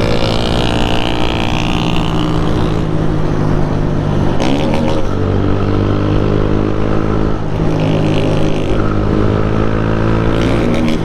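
Motorcycle engine running steadily while riding, its pitch shifting a little with the throttle. There are short bursts of noise about four and a half seconds in and near the end.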